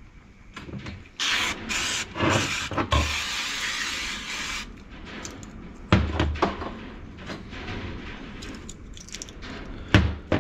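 Several bursts of loud hissing spray over a few seconds, then two sharp knocks on gearbox parts, about six and ten seconds in.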